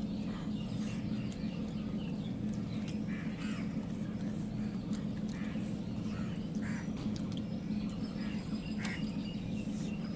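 A steady low hum with short animal calls scattered through it.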